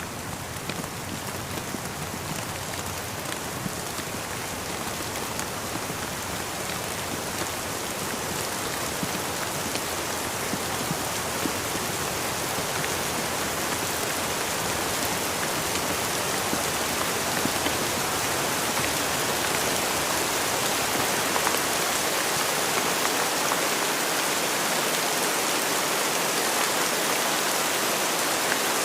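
Steady rainfall: an even hiss of rain with many small drop taps, gradually growing louder.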